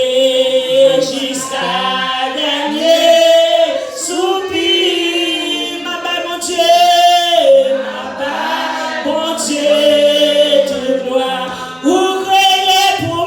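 Church congregation singing together, women's and men's voices, in long held notes.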